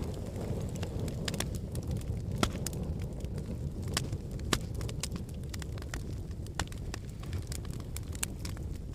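Wood fire burning in a fireplace: a steady low rumble of the flames with irregular crackles and sharp pops of burning logs, a couple of louder pops among them.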